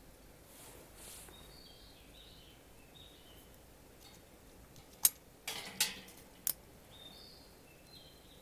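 Birds calling faintly in short, repeated chirping notes. About five seconds in comes one sharp click, then a brief run of clicks and a short scrape, and a last click about a second and a half after the first.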